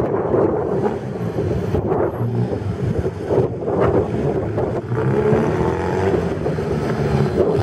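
Vintage car's engine running as it is driven slowly round a cone course, then revving up as the car accelerates past about five seconds in.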